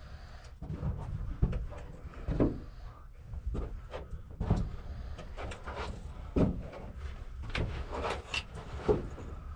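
Irregular knocks, scrapes and rustles of people moving about and handling their gear, with a few sharper knocks spaced unevenly.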